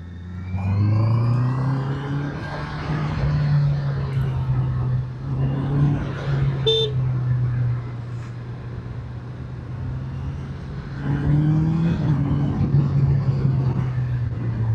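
Motorcycle engine under way on a twisty road: it revs up about half a second in, holds a steady note, eases off around eight seconds in and picks up again near eleven seconds.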